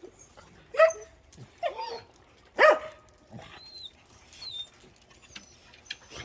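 A dog barking: three loud barks about a second apart in the first three seconds, then quieter.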